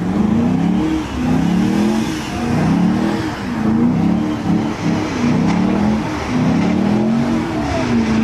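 Car engine being revved hard over and over, its pitch climbing and falling about once a second.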